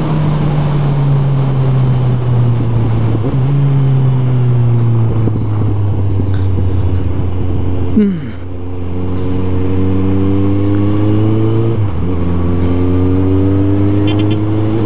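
Suzuki Bandit 1250's inline-four engine running under the rider in traffic, its pitch drifting slowly down as the bike rolls off. About eight seconds in the revs drop quickly, then the engine pulls on steadily, with short dips at gear changes. Wind noise sits underneath.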